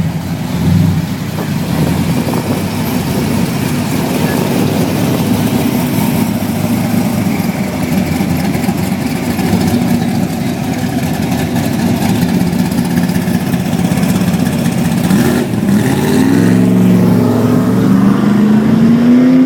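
Classic car engines running loudly and steadily as cars cruise past. Near the end one engine revs up, rising in pitch, then holds a steady note.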